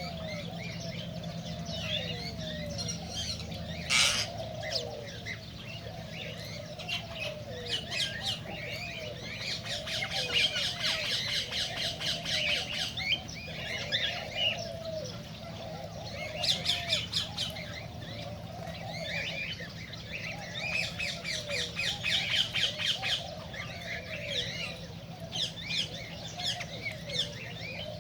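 Cockatiels chirping and squawking over one another, with runs of rapid trilling, over a steady low hum. A sharp click about four seconds in is the loudest sound.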